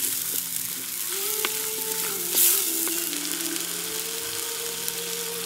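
Green mint-and-coriander masala sizzling and bubbling in a hot pot while a wooden spatula stirs it, with a louder burst of hiss about halfway through.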